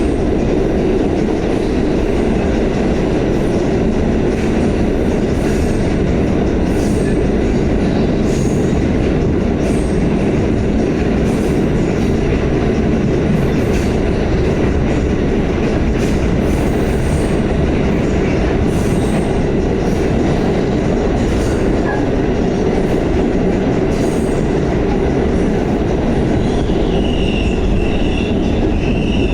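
Pullman-Standard R46 subway car running at speed, a steady loud rumble of steel wheels on rail with scattered clicks. A thin high-pitched wheel squeal comes in near the end.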